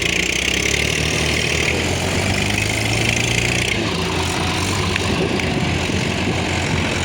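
Heavy diesel machine engine running steadily, its tone shifting slightly about four seconds in.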